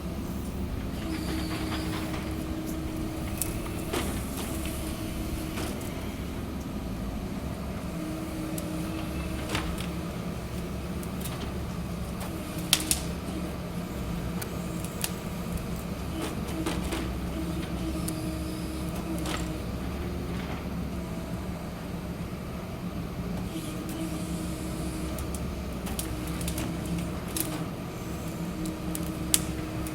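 Small excavator-based forestry harvester running: a steady engine with a hydraulic tone that comes and goes, and a few sharp knocks.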